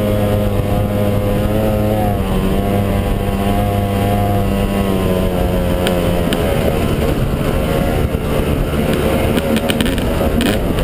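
Yamaha 250 dirt bike engine running at a fairly steady pitch while being ridden, easing off slightly about two seconds in. Scattered sharp clicks and knocks come in over the second half, thickest near the end.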